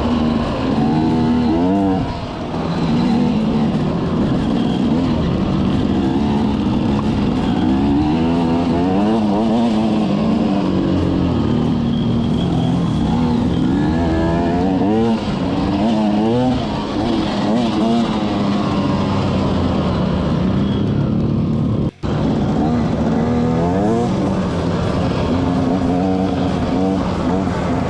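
Off-road vehicle engine running while riding, its pitch rising and falling again and again as the throttle opens and closes. The sound drops out for an instant about 22 seconds in.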